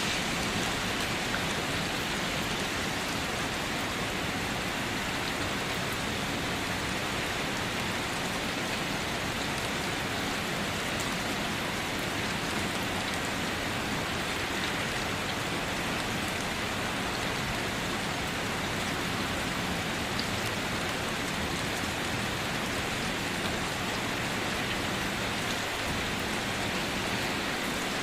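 Steady rain falling on a car, a dense even patter of drops on the body and roof.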